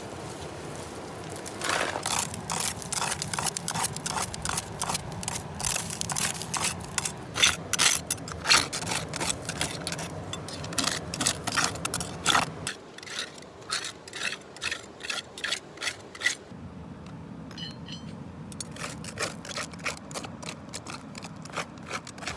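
Hand tool scraping and picking packed gravel out of a rock crevice while crevicing for gold, in quick repeated scrapes, heavier at first and lighter after about halfway.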